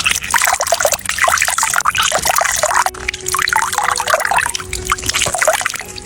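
Water trickling and dribbling, a dense run of small splashes with no break.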